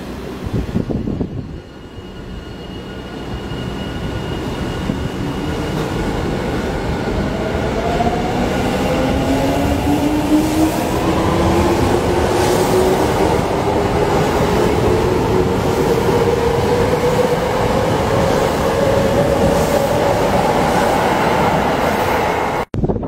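Seibu Railway electric commuter train pulling out of the station and passing close by. Its motors give a whine that rises steadily in pitch as it gathers speed, over a rumble of cars and wheels that grows louder over the first ten seconds and then stays loud.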